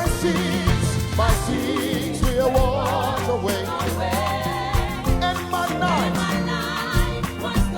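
Live gospel band music: a hymn played with bass, drums and a wavering lead melody line over it.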